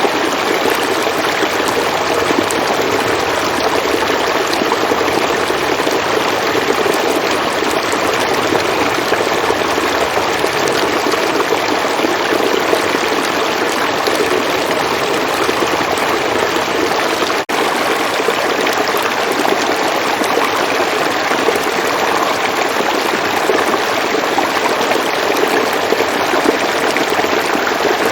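River water flowing steadily, with a momentary dip in level about seventeen seconds in.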